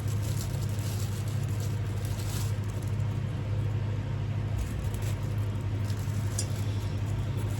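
Steady low hum, as of a motor or appliance running, with a few faint light clicks.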